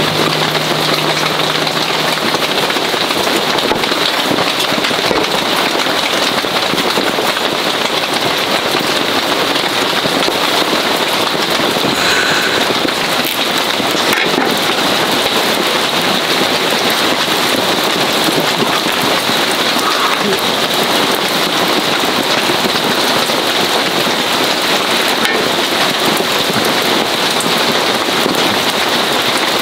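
Heavy rain falling steadily, a loud, even downpour hiss.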